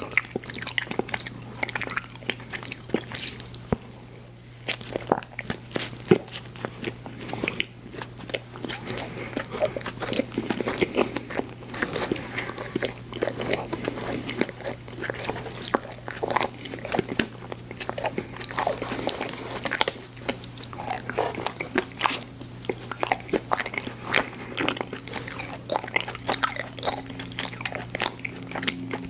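A person chewing and biting sweets with the mouth close to the microphone: a dense, irregular run of wet, sticky clicks and smacks, with a short lull about four seconds in.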